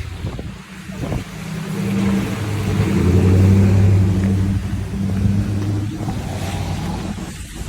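A motor vehicle's engine running with a steady low hum, growing louder over the first few seconds and then easing off.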